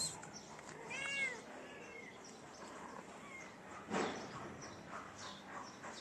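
A cat meowing: one clear meow about a second in, then a fainter short one. A short thud near four seconds.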